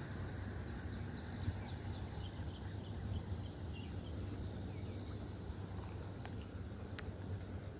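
Riverside outdoor ambience: a steady low rumble under a constant high insect trill. In the first half there is a run of short, quick bird chirps, and near the end two sharp ticks.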